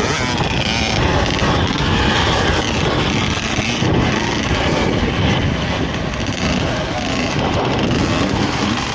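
Dirt bike riding on a motocross track, a steady rushing noise of the machine and wind over the microphone.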